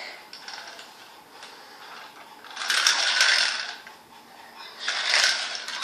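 Mechanical rattling and clattering of a toy train set, rising to two louder bursts, one about a second long near the middle and a shorter one near the end.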